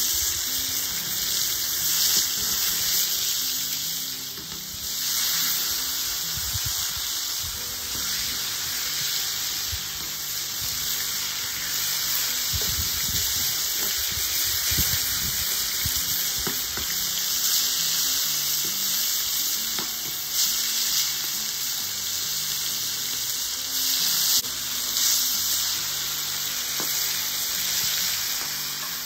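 Chicken breasts sizzling steadily in a hot pan with a little oil as pieces are laid in one after another with tongs, with soft music underneath.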